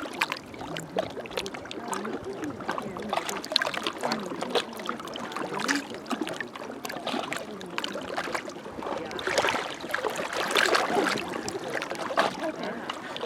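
Small waves lapping and splashing irregularly against the shore, with a steady wash of water.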